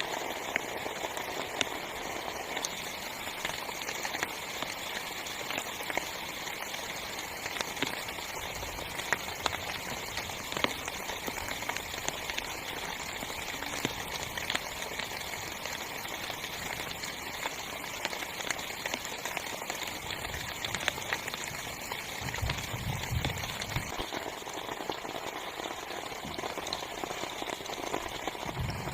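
Heavy rain falling on a small tent, a steady hiss with many sharp ticks of single drops. A low rumble comes in about two-thirds of the way through and again at the very end.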